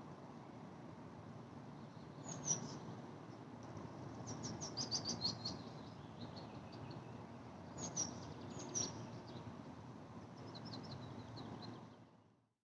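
A small songbird singing several short phrases of quick, high notes that fall in pitch, over a steady low outdoor rumble. Everything fades out to silence near the end.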